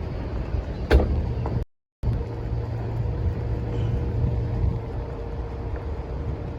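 Low rumble of wind buffeting the microphone over outdoor vehicle noise, with a faint steady hum from about two seconds in. A single sharp knock comes about a second in, and the sound cuts out completely for a moment just before two seconds.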